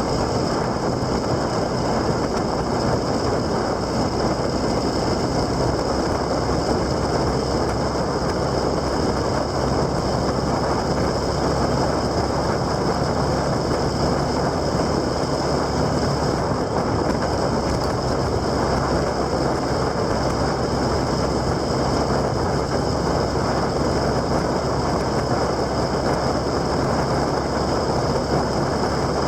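Motorcycle engine running steadily while riding, under a constant rush of wind noise.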